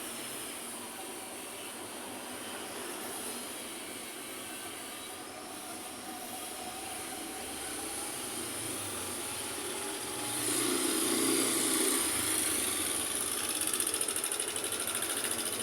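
City street traffic passing: a steady rush of engines and tyres, with a louder vehicle going by close about two-thirds of the way through.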